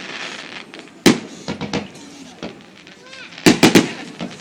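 Fireworks exploding: one sharp bang about a second in, a few smaller pops after it, then a quick cluster of bangs near the end.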